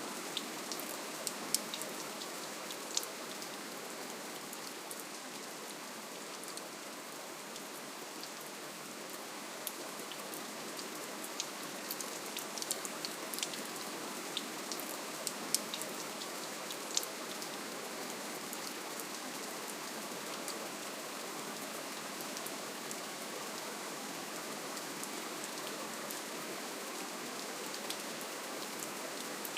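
Soft, steady rainfall: an even hiss of rain with many small scattered drop ticks on a surface.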